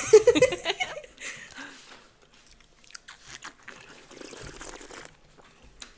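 Close-miked chewing and crunching of crunchy snack food: irregular crunches and mouth clicks, quieter in the middle.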